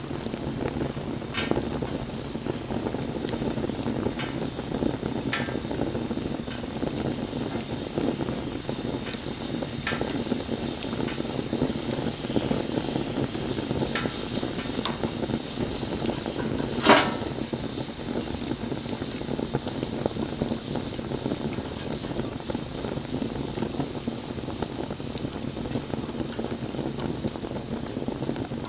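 Wood fire burning with a steady crackle and scattered sharp pops, one much louder pop a little past halfway.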